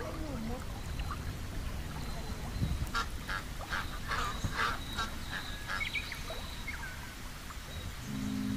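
Waterfowl calling: a quick run of about six short calls around the middle, over a low steady outdoor background.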